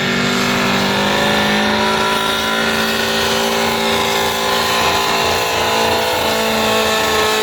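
Engine of a pulling vehicle running hard at high, nearly steady revs under heavy load as it drags the weight sled down the track.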